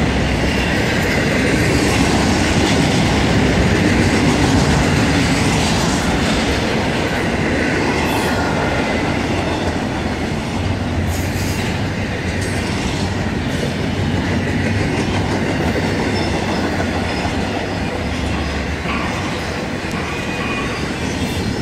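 Intermodal freight train's double-stack container well cars and trailer flatcars rolling past: a steady loud noise of steel wheels on rail, with a few sharp clicks along the way.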